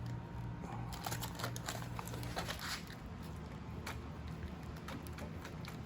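Faint scattered clicks, taps and rustling of hands working a motorcycle carburetor off its rubber intake, over a steady low hum.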